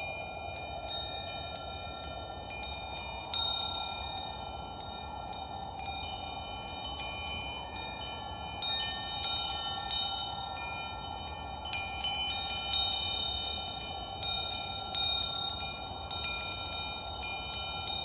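Wind chimes ringing, their metal tubes struck at irregular moments and ringing on over one another, over a steady soft hiss. The sharpest strike comes about twelve seconds in.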